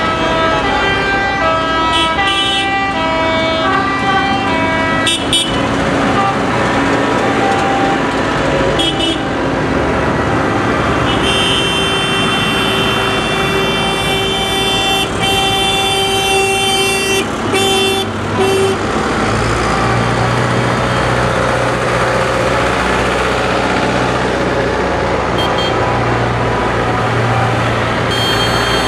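Parade tractors going by: a tune of short stepped notes for the first few seconds, a long horn blast from about eleven to eighteen seconds in, then a tractor's diesel engine running loud and steady over the crowd and traffic noise.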